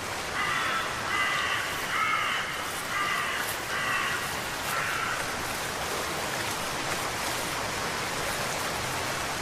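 A crow cawing about seven times in quick succession over the first five seconds, over a steady background hiss.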